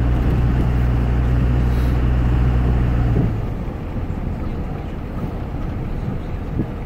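2001 Dodge Ram 2500's Cummins diesel running steadily through a 4-inch AFE exhaust; the low drone cuts off suddenly about three seconds in, leaving a fainter rumble.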